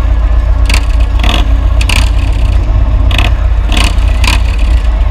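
Motorcycle on the move: a loud, steady low rumble with about seven short, sharp scraping sounds spread unevenly through it.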